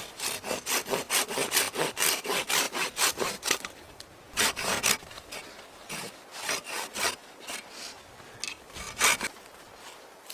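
Hand saw cutting wood: a quick run of back-and-forth strokes, about four a second, for the first few seconds. After a pause come a few slower, scattered strokes.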